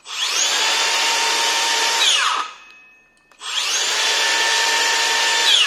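Makita DHS660 18V cordless circular saw with a 165 mm carbide blade, run free twice. Each time the motor spins up with a rising whine, holds a steady whine for about two seconds, then winds down fast when the trigger is released: the electric brake stops the blade almost at once.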